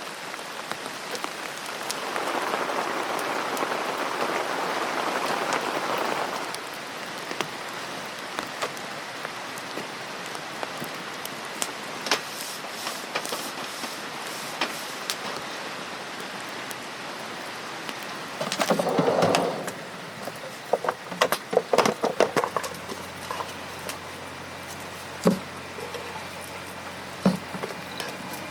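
Steady rain falling, heavier for a few seconds near the start, with scattered sharp ticks and pops through it. About two-thirds of the way in there is a brief louder burst of noise, followed by a run of clicks.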